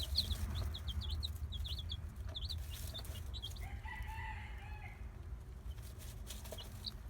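Young chicks peeping in rapid short high chirps, thick at first and thinning out after about three seconds. About four seconds in, an adult chicken gives one longer, lower call.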